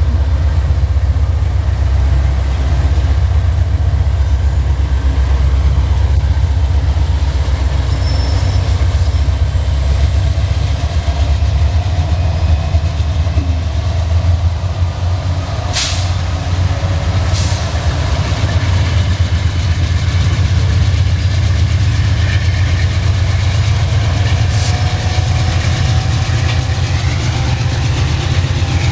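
Norfolk Southern freight grain train rolling past: a steady, heavy rumble of wheels on rail, with a few sharp clicks from the rail joints and cars.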